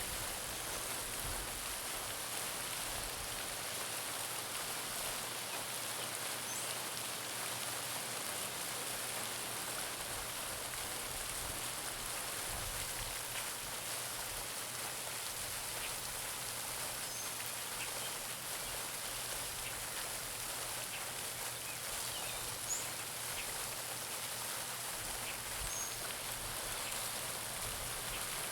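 Garden pond fountain: water splashing steadily back onto the pond surface, with a few faint bird chirps.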